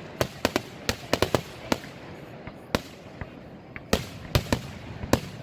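Fireworks going off: a string of sharp bangs and cracks at uneven spacing, several in quick succession, thinning out for a couple of seconds in the middle before picking up again.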